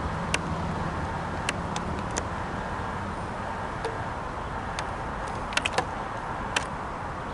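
Amtrak Northeast Regional passenger train moving away, with a steady rolling noise from the cars on the rails. A low hum fades out in the first couple of seconds, and there are scattered sharp clicks, several close together near the end.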